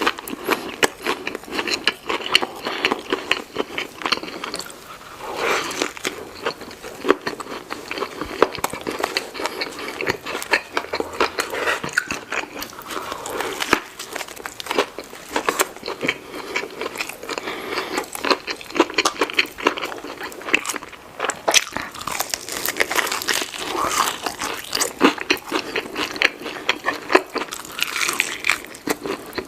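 Close-miked eating sounds: a burger and fries being bitten and chewed, with dense irregular crunching and crackling.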